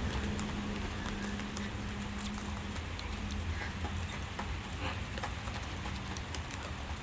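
Steady rain falling, an even patter with many scattered drop ticks, over a low steady hum.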